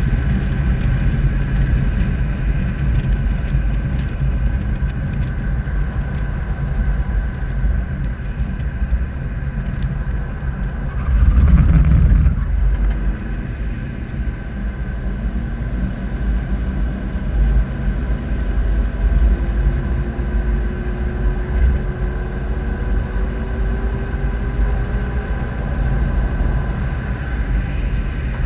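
Old SUV driving at low speed, heard from its bumper: steady engine and road rumble, with a louder rush about eleven seconds in.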